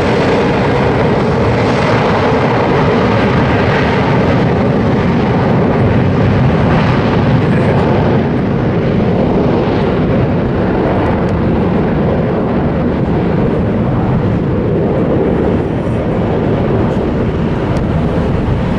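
Airbus A320 twin jet engines at takeoff thrust: a loud, steady jet noise from an airliner climbing out after departure, easing slightly about fifteen seconds in.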